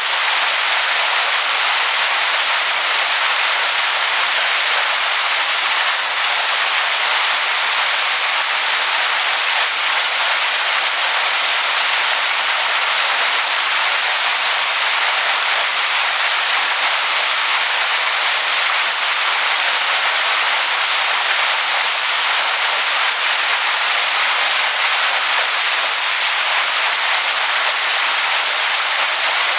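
Waterfall splashing onto rocks: a steady, even rush of water, bright and hissy with almost no low rumble.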